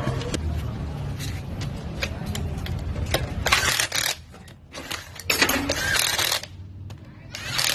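Metal parts clinking and rattling in three short bursts, with a low steady hum that fades out about halfway through.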